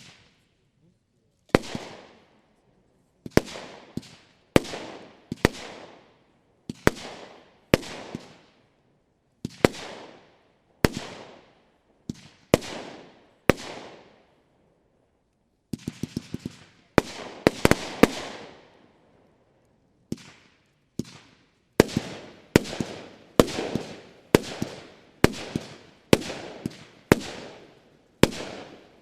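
Argento Sakkara consumer firework battery, 40 shots in mixed 20, 25 and 30 mm calibres, firing shot after shot. Sharp bangs come about one to one and a half seconds apart, each fading quickly, with a quick flurry of several bangs about halfway through.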